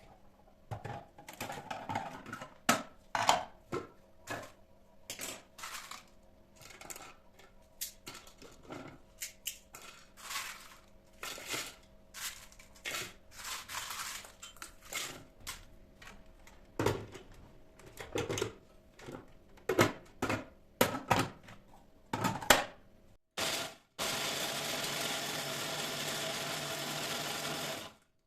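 Kitchen handling sounds: scattered clinks and knocks of dishes and utensils being moved and set down. Near the end a small electric kitchen motor starts and runs steadily.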